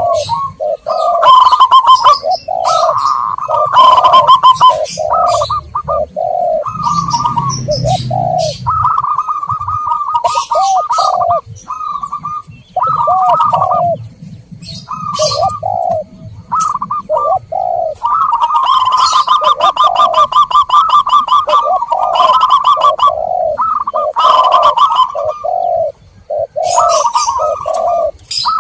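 Zebra doves and spotted doves cooing over and over in a continual chorus of repeated coos, with a long rolling, rapid run of coo notes around the middle. Short high-pitched chirps from small birds come in between.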